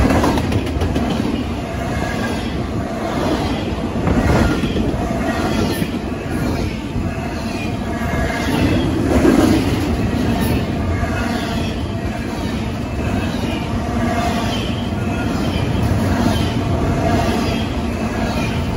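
Double-stack intermodal freight train passing close at speed: continuous rumble and clatter of steel wheels on the rails, with a brief louder swell about halfway through.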